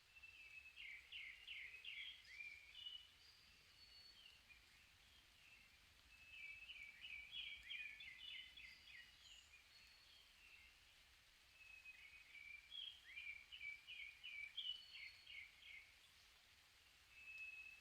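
Songbird singing in three bursts, each a quick run of sharp notes lasting two to three seconds, with a few thin high whistles between them.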